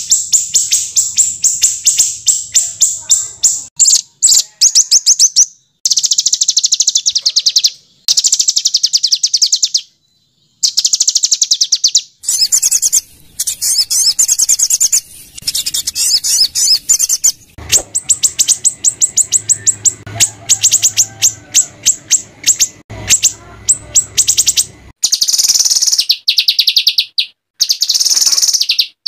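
Small songbird singing rough, rapid-fire trills of high chirps, the harsh 'tembakan kasar' phrasing used in masteran recordings to train white-rumped shamas. The song comes in bursts of one to three seconds with short breaks between them, and a harsher, buzzier stretch runs through the middle.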